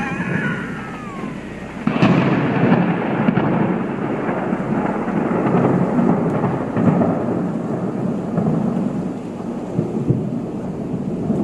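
A falling, whining tone fades out over the first second or so. Then, about two seconds in, a loud, low rumble starts suddenly and continues, sounding like rolling thunder.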